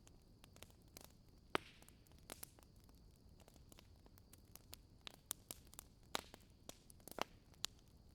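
Wood fire crackling: sparse, irregular sharp pops and snaps over a faint steady hiss. The loudest snaps fall about one and a half seconds in and in a cluster from about five to eight seconds.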